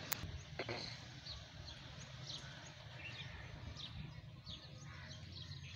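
Small birds chirping in short, falling high notes, two or three a second, over a steady low background hum. A sharp click sounds just after the start.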